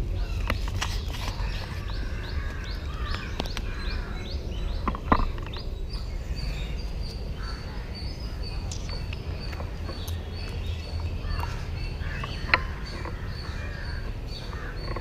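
Birds calling in quick, repeated high chirps, some with harsher crow-like calls, over a steady low rumble of outdoor background noise. Two sharp clicks stand out, one about a third of the way through and one near the end.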